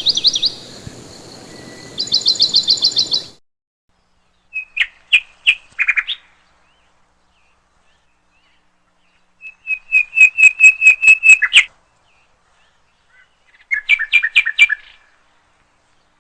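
Birdsong: short phrases of quick, high chirps and trills of rapidly repeated notes. There are four or five phrases, each a second or two long, separated by complete silences.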